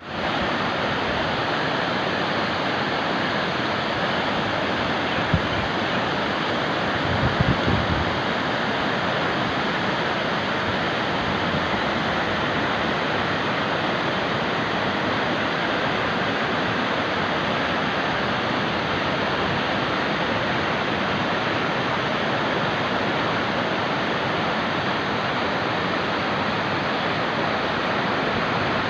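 Cauvery river water rushing steadily through the Mukkombu dam, an even, unbroken noise of falling and flowing water, with a few brief low bumps about seven seconds in.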